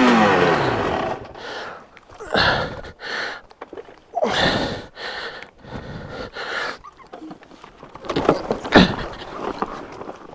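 A dirt bike engine revving and falling away in the first second, then a rider's heavy breathing and grunts in bursts every second or so as he struggles with the bike stalled sideways on a steep, slippery ledge.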